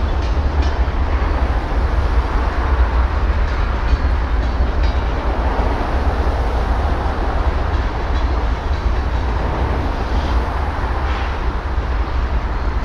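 Freight cars rolling past on yard track: a steady rumble of steel wheels on rail, with a few faint clicks as the wheels cross joints.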